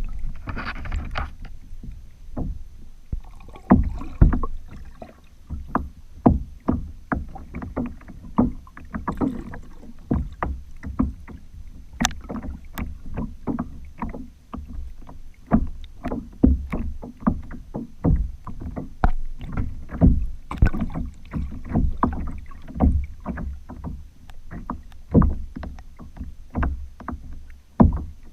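Water slapping and knocking against a kayak as it is paddled: frequent irregular knocks and low thumps, a few a second.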